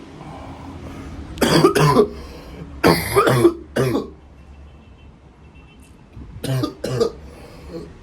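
A man coughing after a hit from a blunt: several harsh coughs in three short bouts.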